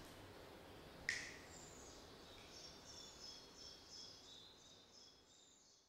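Faint, quiet bird chirps repeating and fading away, with one sharp ringing hit about a second in.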